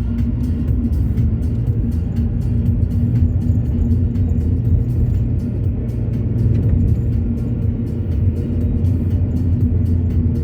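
Car driving at a steady pace: a continuous low rumble of engine and road noise that does not rise or fall.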